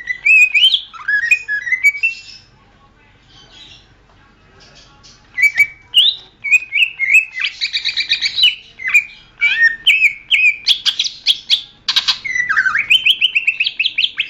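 Green leafbird (cucak ijo) singing: a short burst of varied whistled notes, a pause of about three seconds, then a long unbroken run of quick rising whistles, rapid trills and sharp clicking notes.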